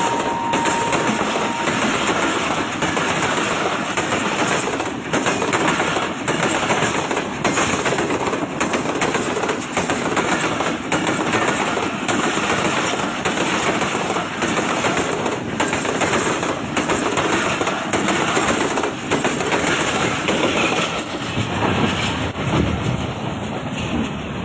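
Passenger train running past, its wheels clattering over the rail joints in an irregular stream of knocks over a steady rumble. A held horn note ends about two seconds in.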